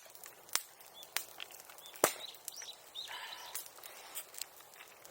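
Bonfire of bamboo grass crackling, with a few sharp irregular pops, the loudest about two seconds in, over faint high bird chirps.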